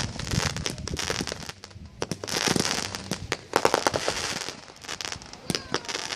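Aerial fireworks display: a rapid string of sharp bangs from bursting shells over continuous crackling, with two especially dense volleys about two and three and a half seconds in.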